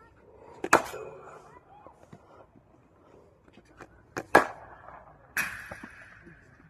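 Cricket bat striking the ball in separate shots: a sharp crack about a second in, two more close together around four seconds in, then a noisier burst that trails off about five and a half seconds in.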